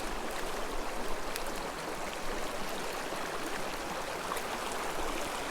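Small mountain creek running over rocks: a steady babbling water sound.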